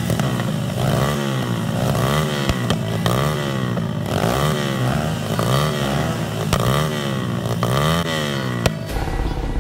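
Pit bike engine revved up and down over and over in a steady rhythm, about one blip every three-quarters of a second, with occasional sharp exhaust pops (afterfire from the exhaust). The revving stops near the end.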